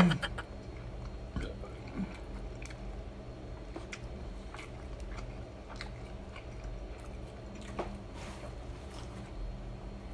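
A person chewing a mouthful of mixed rice, with scattered light clicks and taps as a wooden spoon scoops rice from a wooden plate.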